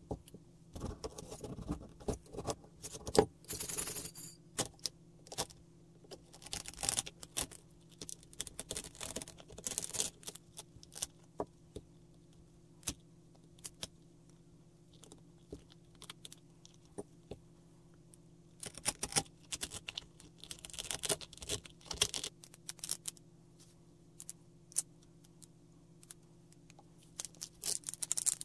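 Thin cured-resin support structures of a resin 3D print snapping and crackling as they are broken off by hand, in bursts of many small sharp clicks with quiet gaps between, over a steady low hum.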